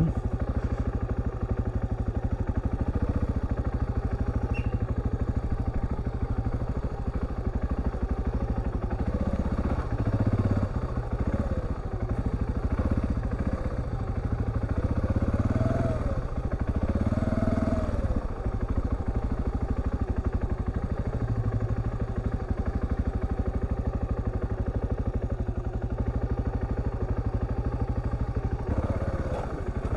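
Husqvarna TR650's single-cylinder engine running under load on a rough track, the revs swelling and falling twice in quick succession about halfway through.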